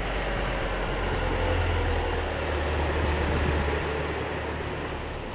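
Motorcycle on the move: engine running under a steady rush of wind and road noise, with the low engine note shifting a couple of times.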